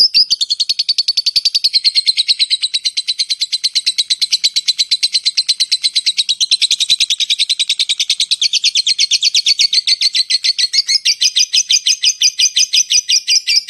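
Songbird song from a bird-training (masteran) recording: a long, fast trill of sharp high chirps repeated evenly, about ten a second, changing to a slightly different note pattern near the end.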